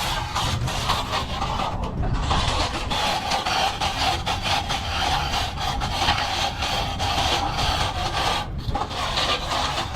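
Plastering tool scraping and rubbing over a plastered wall in continuous strokes, breaking off briefly twice.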